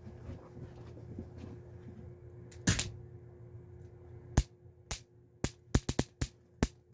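Electric fly swatter zapping a spider: a louder crackle a little before three seconds in, then a quick run of sharp separate snaps from about four and a half seconds on.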